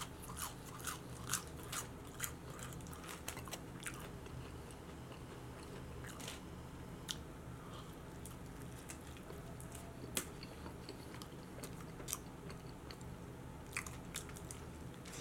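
A person chewing crispy, thin-battered onion rings, close to the microphone, with dense crunching for the first few seconds. Then slower chewing with only occasional single crunches.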